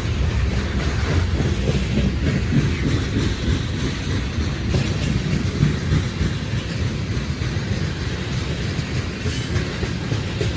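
Freight train of tank cars rolling past, steel wheels running steadily on the rails.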